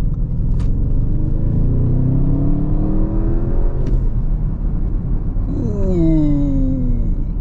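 Audi RS7's twin-turbo V8 accelerating: the revs climb for a couple of seconds and break off at a gear change about four seconds in. Near the end the revs rise sharply once and then fall away.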